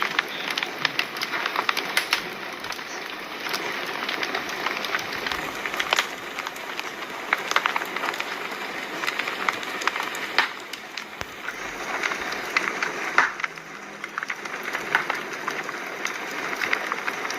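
Fire crackling: a steady hiss with many sharp, irregular pops and snaps.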